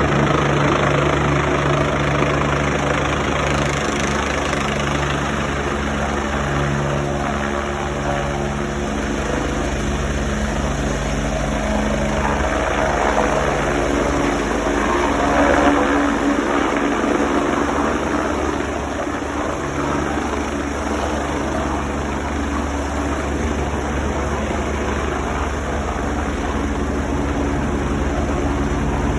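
Helicopter coming in to land, its rotor and turbine running steadily, swelling a little about halfway through.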